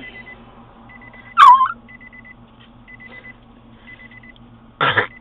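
A dog gives a single squeaky yip that rises and falls, about a second and a half in. Behind it a short electronic beep repeats about once a second, and a brief harsh noisy sound comes near the end.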